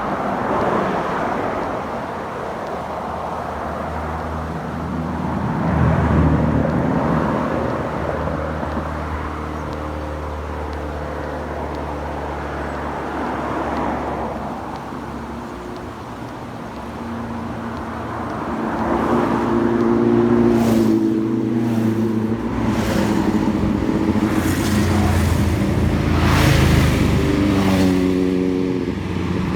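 Several motorcycles passing at speed one after another, each engine swelling and fading as it goes by, with the loudest run of passes from about twenty seconds in.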